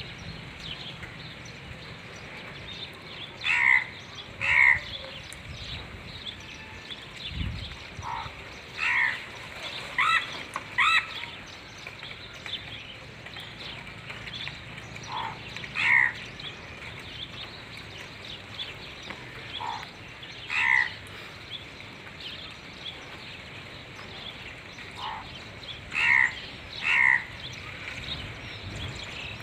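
A bird giving short, harsh calls, often in pairs about a second apart, with gaps of several seconds between groups. There is one low thump about seven and a half seconds in.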